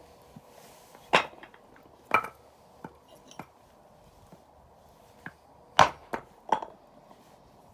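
Campfire of burning firewood crackling, with a handful of sharp, loud pops and smaller snaps at irregular intervals over a soft steady hiss.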